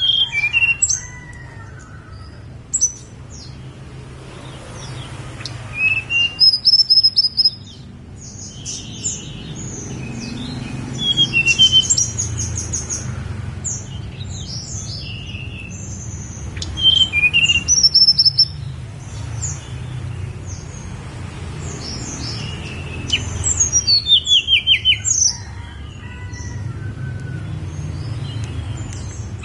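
Tledekan gunung songbird singing: bursts of high, quick chirping phrases every few seconds, some run together as fast trills, over a steady low hum.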